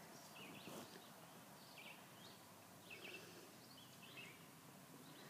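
Faint bird calls: short chirps repeating about once a second over a quiet background.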